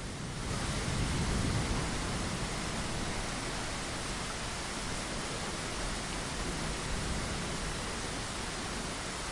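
Steady rain falling against a window: an even hiss with no separate drops or rhythm, a little louder and fuller from about half a second in.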